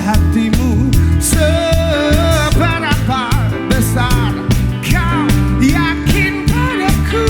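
Live pop-rock band playing loudly: drums and bass keep a steady beat under a gliding, wavering melodic line.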